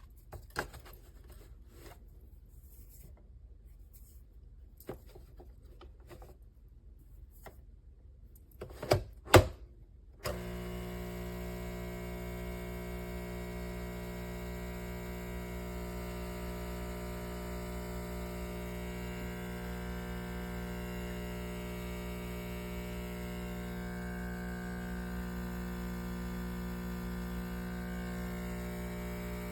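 A few clicks and knocks, then the Nespresso Inissia's vibratory pump starts about a third of the way in and buzzes steadily while brewing a coffee.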